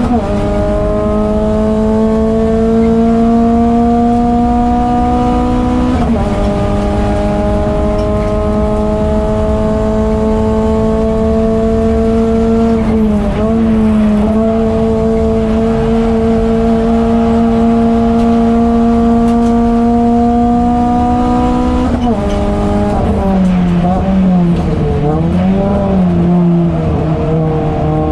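Renault Clio 200 race car's 2.0-litre four-cylinder engine running hard under full throttle, its pitch climbing slowly through long pulls. The revs drop sharply at a gear change about six seconds in, dip briefly around thirteen seconds, and drop again at about twenty-two seconds. After that they rise and fall repeatedly through a run of corners.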